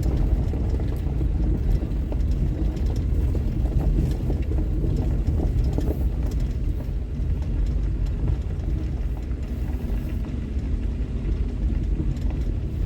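Car driving along, a steady low engine and tyre rumble with faint scattered ticks.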